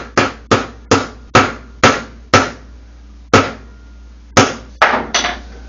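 Hammer tapping a new drum bearing into the rear bearing seat of a Samsung washing machine tub, striking around the bearing's edges to start it in square. Sharp blows about two a second at first, then slower with pauses of about a second, some with a short metallic ring.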